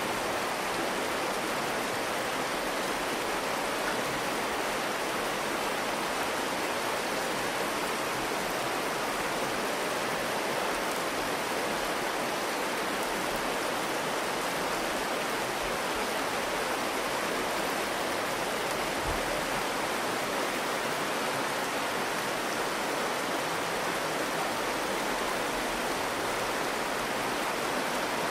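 The Virgin River rushing over rocks in the canyon, a steady, unbroken sound of flowing water.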